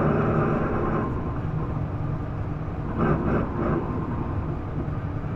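Isuzu Erga PDG-LV234L2 route bus's diesel engine heard from inside the cabin, running hard with a strong drone that drops back about a second in, then running more quietly.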